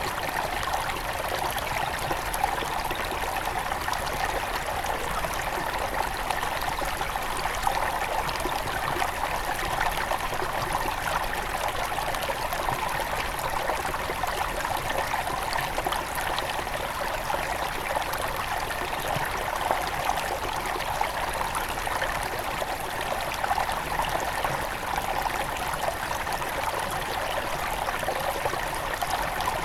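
Small mountain river at its headwaters, water running and trickling steadily over stones with a bright, fizzy splashing.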